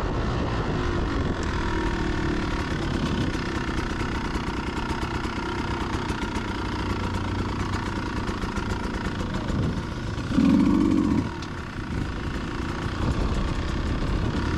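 Beta 200RR two-stroke dirt bike engine running while being ridden down a trail, with throttle changes and a louder surge about ten seconds in.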